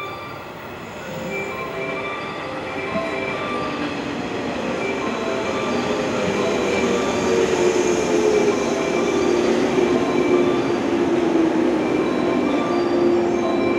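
Yellow 115-series electric train pulling into the platform and braking to a stop, its wheels rumbling over the rails and growing louder. About seven seconds in, a squeal sets in, slides down in pitch, then holds steady as the train slows.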